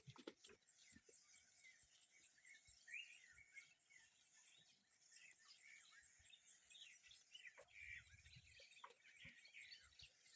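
Faint birdsong: many small birds chirping and twittering, scattered short calls throughout.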